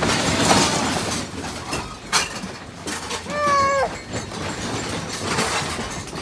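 A single short, pitched animal call about halfway through, bending in pitch, over continuous noise with a few sharp knocks.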